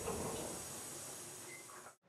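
Faint steady hiss of room noise with no distinct event.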